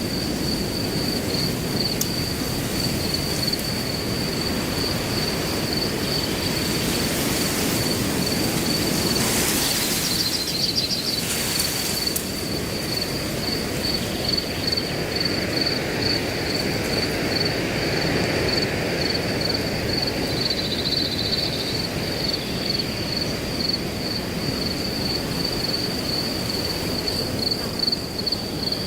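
Wind blowing through grass, a steady rushing hiss that swells in gusts, with crickets chirping continuously in a fast, even, high-pitched trill.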